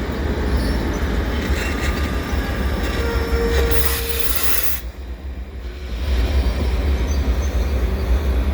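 Freight train's diesel locomotives running with a steady low rumble. A brief squealing tone comes about three seconds in, then a short burst of hiss.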